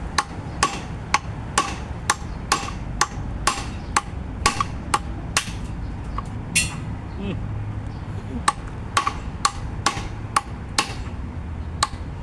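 Hammer striking metal on a car's lower control arm, about two sharp ringing blows a second with a pause of a couple of seconds midway, knocking out the drilled-through rivets of the old ball joint.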